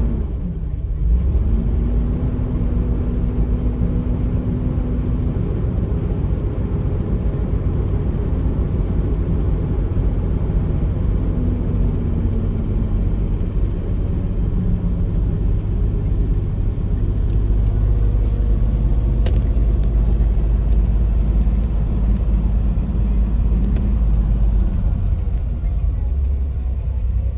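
Toyota Land Cruiser 60's carbureted petrol straight-six idling steadily on the choke during a cold-weather warm-up, heard from inside the cabin.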